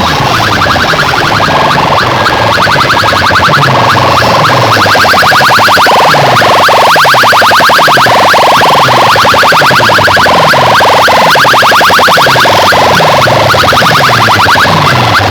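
Electronic DJ sound-check track played very loud: a rapid stream of buzzing beeps, with a deep bass tone sweeping downward about once a second.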